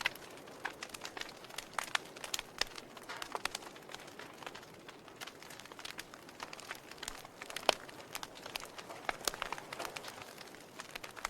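Logs burning in a fireplace, crackling with irregular sharp pops over a soft hiss of the fire; the loudest pop comes about two thirds of the way through.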